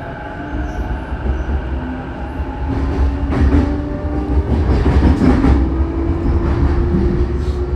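Saikyo Line electric commuter train running, heard inside the car: a deep wheel-and-track rumble under a motor whine that climbs slowly in pitch as the train gathers speed. In the middle come a few sharp clacks of the wheels over rail joints.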